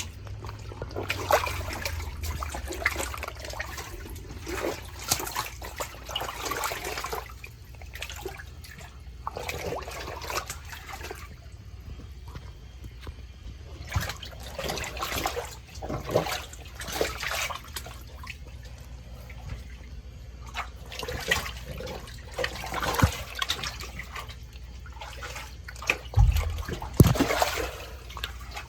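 Water running and splashing unevenly, with two heavy low thumps near the end.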